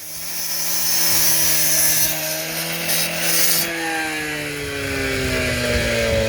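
A motorised power tool running with a harsh cutting hiss. The hiss stops about three and a half seconds in, and the motor's pitch then falls slowly as it winds down.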